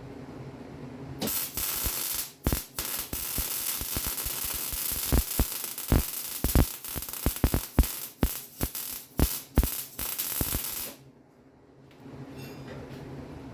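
Electric arc welding on a steel frame cross member: a steady sizzling hiss with many sharp crackling pops, starting about a second in and cutting off suddenly near the end, leaving a low hum.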